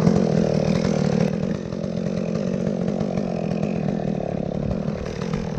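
Chainsaw running steadily, its level dropping slightly about a second and a half in.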